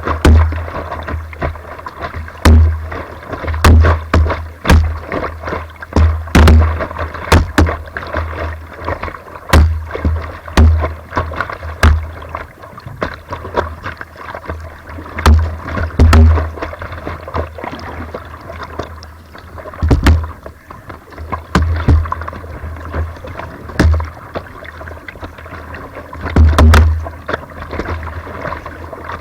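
Slalom kayak being paddled through whitewater: steady rushing water with repeated splashes and sharp knocks of paddle strokes, and heavy low thumps every second or two as water and movement hit the microphone.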